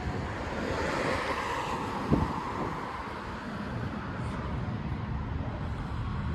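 Road traffic: a passing car's tyre and engine noise swells and fades, with wind buffeting the microphone. A brief sharp knock sounds about two seconds in.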